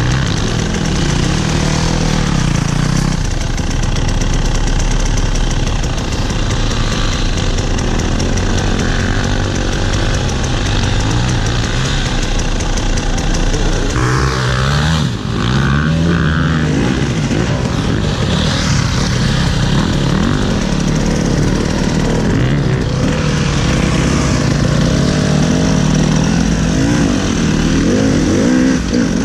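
Off-road motorcycle engine heard from on the bike, revving up and down under load as it is ridden, with wind noise over it.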